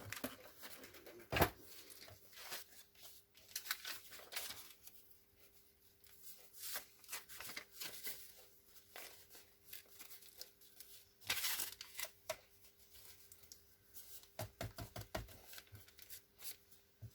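Paper being handled and torn at a work table: faint rustles and taps, a sharp knock about a second and a half in, and a longer tearing rasp about eleven seconds in.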